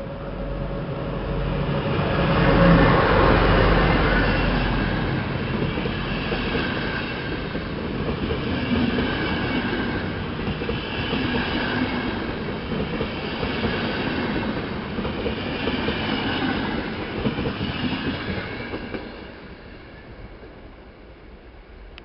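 Intercity passenger train passing slowly, loudest about three seconds in, its wheels clattering over the rail joints in regular swells, then fading away near the end.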